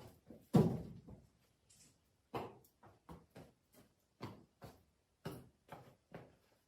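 A series of short, sharp knocks at an uneven pace of about two a second, with one much louder knock about half a second in.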